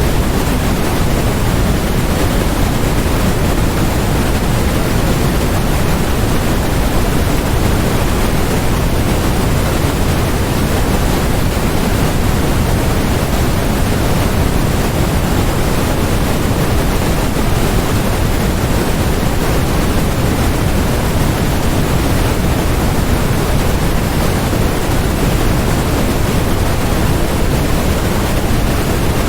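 Steady electronically generated noise for focus masking: an unbroken, even hiss across the whole range, heavier in the low end than the highs, with no changes or events.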